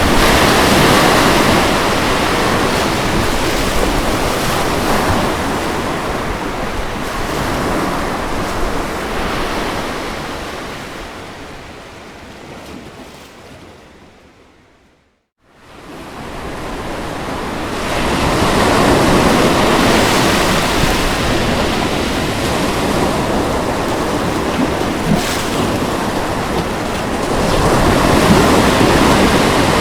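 Ocean waves washing onto a shore in a steady surf rush. The sound fades away to near silence about halfway through, then swells back within a few seconds.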